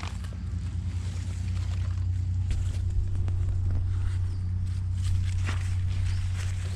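Footsteps and crackling of leaf litter and twigs underfoot, as scattered short clicks, over a steady low hum.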